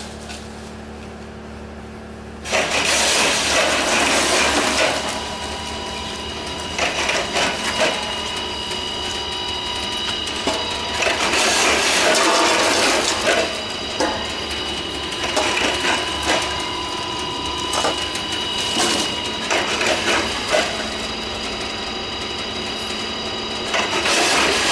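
Ishida semi-automatic combination scale and bucket lifter running under test: a steady motor hum and whine, with irregular mechanical clattering that starts about two and a half seconds in and surges and eases.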